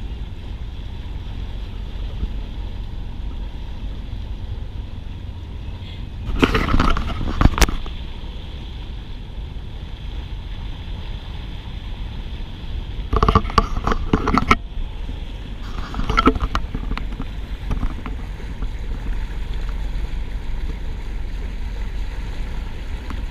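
Steady low wind rumble on the microphone and water noise around a sailboat, broken by three short louder bursts about six, thirteen and sixteen seconds in.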